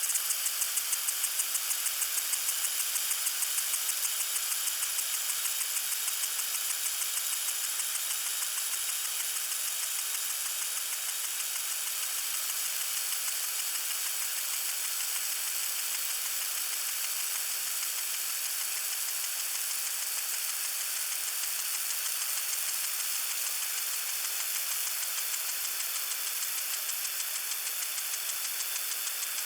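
Water sprinkler spraying: a steady high hiss with a fast, even pulsing that is strongest in the first few seconds and then evens out.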